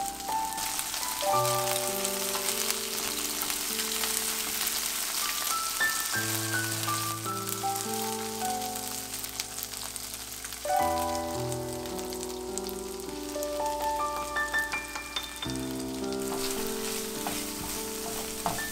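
Shrimp sizzling in hot oil in a frying pan, a steady frying hiss that is strongest in the first half, with minced garlic and ginger added and stirred in. Background music with a simple melody of stepping notes plays throughout.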